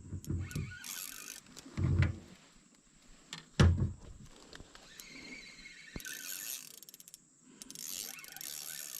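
Knocks and handling noises from fishing tackle in a boat while a giant river prawn is played in. The loudest knock comes about three and a half seconds in, with another about two seconds in.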